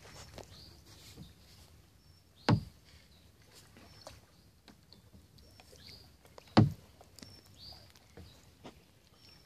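Two sharp knocks on a kayak, about four seconds apart, with short high-pitched bird chirps in between.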